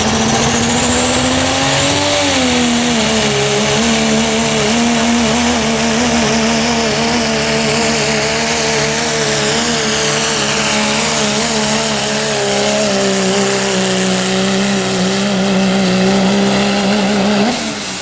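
Diesel truck engine at full throttle on a pull: the revs climb over the first two seconds with a high turbo whistle rising alongside, then hold high and steady under load. Near the end the throttle is let off and the revs and whistle fall away.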